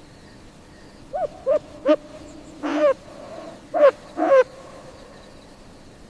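An animal calling: a series of short pitched calls, three quick ones followed by a longer one, then a short call and another longer one.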